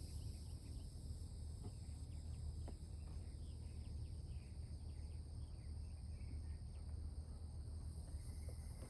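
Quiet outdoor ambience: steady high-pitched insect buzzing with many quick chirps over it, a low steady hum underneath, and a couple of faint ticks.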